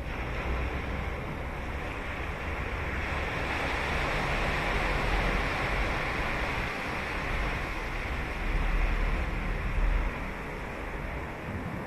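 Ocean surf breaking and washing up the beach, swelling to its loudest midway and then easing back. Low wind rumble on the microphone grows stronger near the end.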